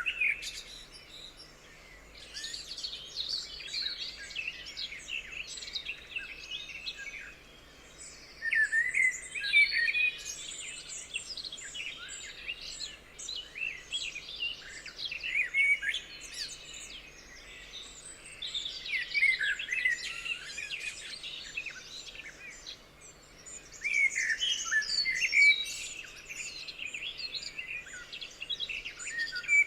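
Several songbirds chirping and singing at once, short quick notes and warbles overlapping in bouts that swell every few seconds.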